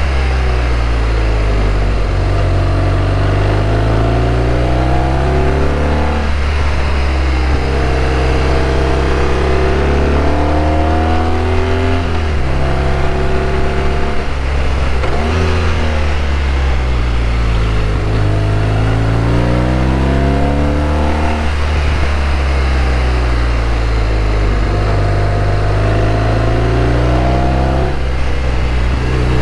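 BMW R1200RT boxer-twin engine under way, its pitch climbing as it accelerates and then dropping sharply, again and again (about every five or six seconds), over steady wind and road noise.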